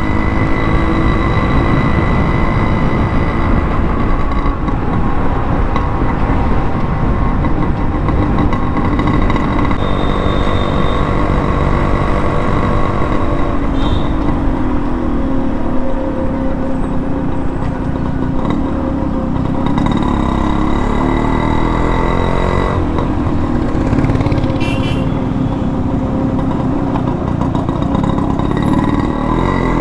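Yamaha RX100 two-stroke single running on the move through an aftermarket expansion-chamber exhaust, its note rising and falling as the throttle opens and closes.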